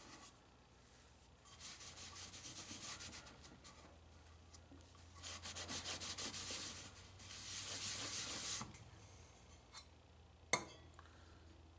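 Rubbing and scraping on the parts of a vending machine's rotor gearbox during disassembly, in three bouts of a second or two each, followed by a couple of light clicks and a sharp knock near the end.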